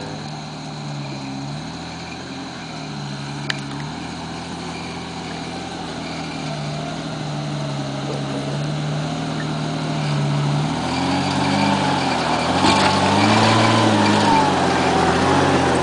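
Jeep Cherokee's engine pulling the vehicle slowly up a steep dirt track. It runs steadily at first, then from about two-thirds of the way through revs up and down repeatedly and gets louder as the Jeep climbs toward the listener.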